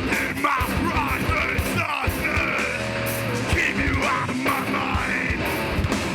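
Hardcore band playing live, loud, with pounding drums, distorted guitars and yelled vocals.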